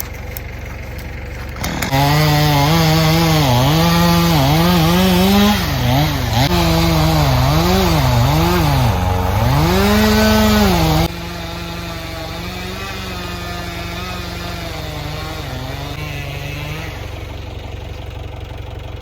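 Chainsaw making a felling cut into a standing tree. About two seconds in it goes to full throttle, its pitch dipping and recovering over and over as the chain bogs in the wood. About eleven seconds in it drops back to idle.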